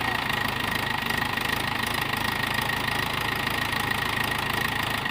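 Mahindra 415 DI tractor's four-cylinder diesel engine running steadily, with a thin high-pitched tone over it.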